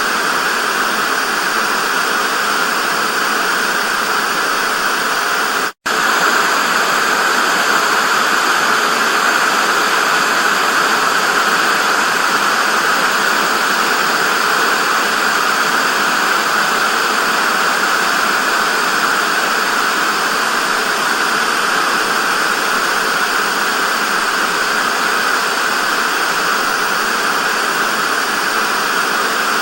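Television static: a steady, even hiss, strongest in the middle of the range. About six seconds in it cuts out for a split second and then resumes.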